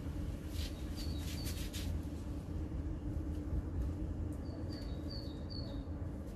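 Short, high chirps from a small bird: two about a second in, then four in quick succession a little past the middle, each dropping to a slightly lower note. A steady low rumble runs underneath.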